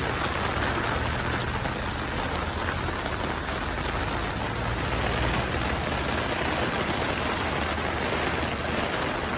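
Heavy rain pouring down: a steady, even hiss with a low rumble underneath.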